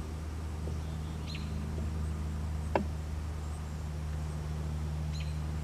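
Steady low hum of a car's V8 engine idling, with a single sharp click a little before the middle. A bird chirps briefly twice, about a second in and near the end.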